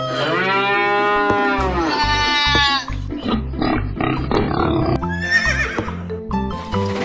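Background music with farm-animal sound effects. Two long drawn-out livestock calls come in the first three seconds, then music with a steady beat carries on.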